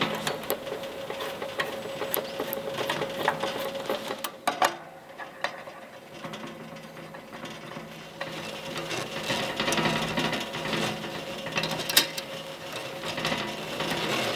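Irregular small clicks, taps and rustling of objects being handled, with one sharper tap about twelve seconds in, over a steady faint hum.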